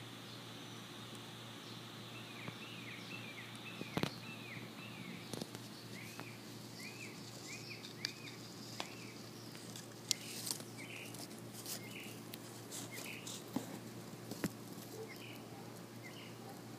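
A small bird calling in a long run of short, repeated chirps, about one or two a second, over a steady low hum. A few sharp clicks and scrapes come through, the loudest about four and ten seconds in.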